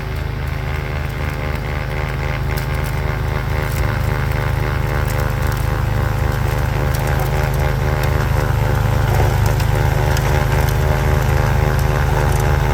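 Lawn tractor engine running steadily while powering a front-mounted two-stage snowblower through heavy wet snow. It grows gradually louder.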